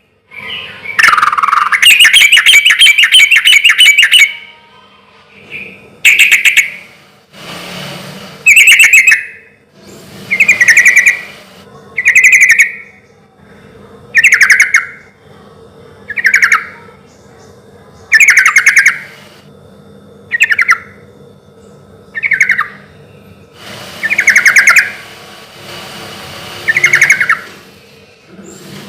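Yellow-vented bulbul (trucukan) singing loudly: a long rapid chattering phrase near the start, then short bubbling phrases repeated about every two seconds.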